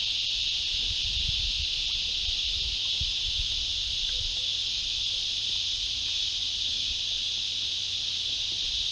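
Steady, high-pitched drone of an insect chorus in the bush, unbroken throughout, over a low irregular rumble.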